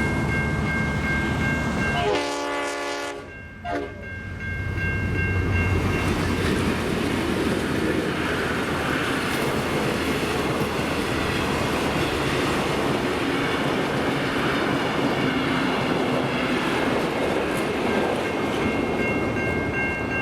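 Level crossing electronic bells ringing steadily. About two seconds in, a diesel locomotive sounds its horn for under two seconds, then a diesel-hauled train passes with a long, loud run of engine and wheel noise that drowns the bells. The bells come back through near the end.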